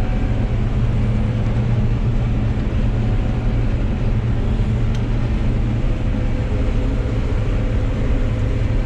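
John Deere 9760 combine running under load while harvesting wheat: a steady low drone of engine and threshing machinery, with a faint constant whine above it.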